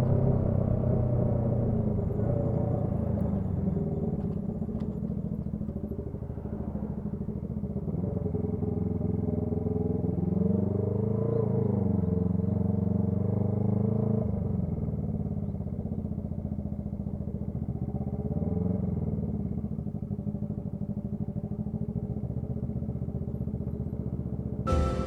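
Honda CB125T motorcycle engine running through a loud muffler, its pitch rising and falling a few times as the revs change.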